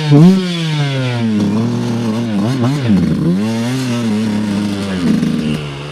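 Dirt bike engine revving hard on a trail, its pitch swooping up and down with quick throttle changes at first, then holding steadier with a few dips, and easing off near the end.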